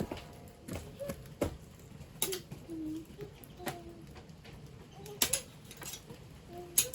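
Branches and twigs crackling and popping as they burn in a stainless-steel household incinerator: irregular sharp pops, a few of them louder.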